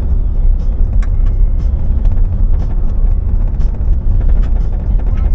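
Car driving: a steady low rumble of engine and road noise, with scattered light clicks and rattles.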